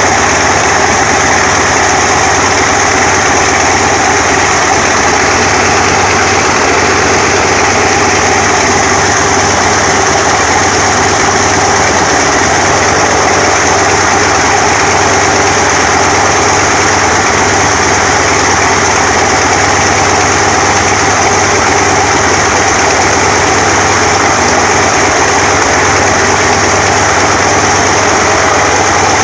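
Antonov An-2's ASh-62IR nine-cylinder radial engine running loud and steady during a ground run-up after long storage.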